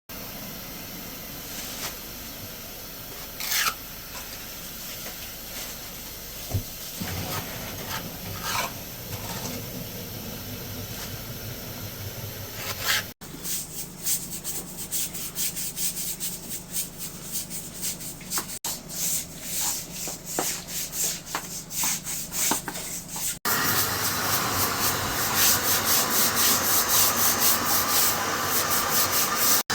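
A brush scrubbing a fountain in quick repeated strokes, across several short cut-together clips. The strokes get louder and denser in the last few seconds.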